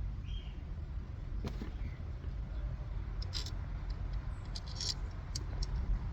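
Light plastic clicks and short scrapes from ignition coils being handled and set side by side, over a steady low background rumble.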